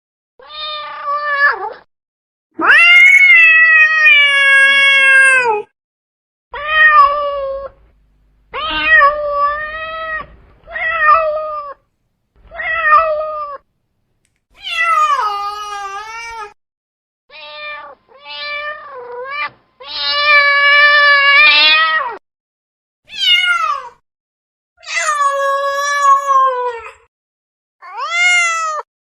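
Domestic cat meowing again and again: about fifteen separate calls, most short, with three drawn out for two to three seconds and falling at the end.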